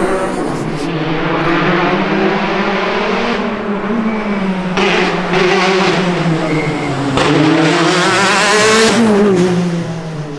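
Rally car engine driven hard on a stage. Its pitch climbs and drops repeatedly through gear changes and lifts off the throttle. Near the end the pitch falls steeply as the car goes by.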